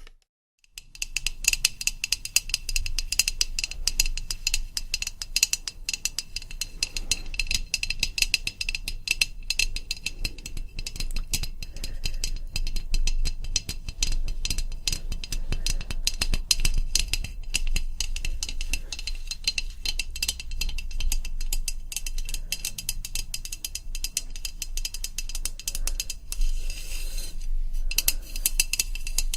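Rapid, continuous ASMR tapping on a hard object that rings, many taps a second. It starts after a brief silence at the very beginning.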